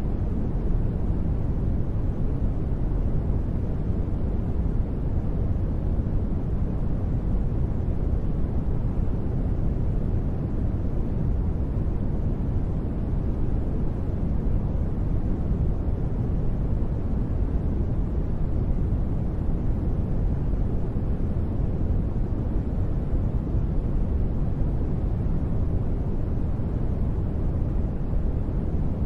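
Continuous synthetic sleep noise sold as white noise: a steady, deep noise with its weight in the low end and little high hiss, with no changes or sudden sounds.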